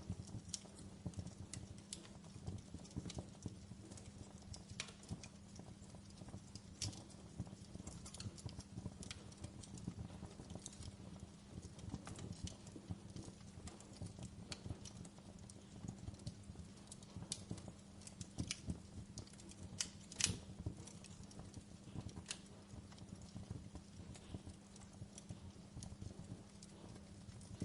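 Wood fire crackling in a fireplace: irregular small pops and snaps over a low steady hum, with one louder pop about twenty seconds in.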